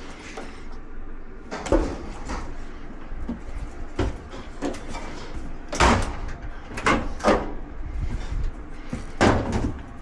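Knocks and clunks of a dryer's panels and parts being handled during disassembly: about six sharp ones spread unevenly through, with quieter rattling between.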